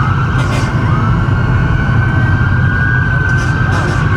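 Police car siren wailing, one slow rising tone that then holds high, over the loud low rumble of car engines.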